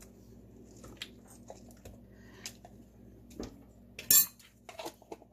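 A spoon clinking and knocking against a container while ingredients are scooped and stirred: scattered light clicks, with one louder clatter about four seconds in followed by a few quick knocks.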